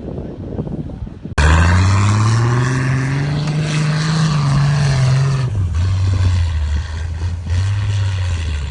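Off-road 4x4's engine revving hard under load on a sand climb, starting abruptly about a second in, its pitch rising and then dropping lower about halfway through, with a loud rushing noise over it.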